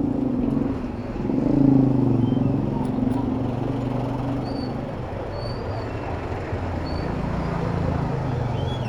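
City road traffic heard from a bicycle: motor vehicle engines running close by with a low hum, loudest about two seconds in, over steady road noise.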